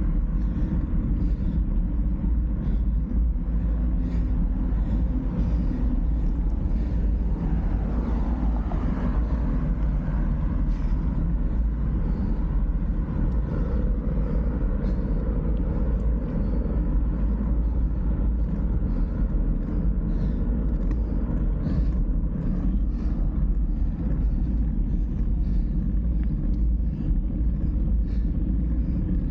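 Steady low rumble of riding noise, wind buffeting the microphone over road sound, unchanging throughout.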